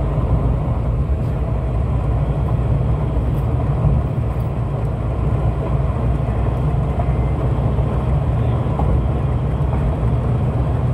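Steady, loud rumble of an electric commuter train running at speed, heard from inside the carriage, the noise heaviest in the deep lows.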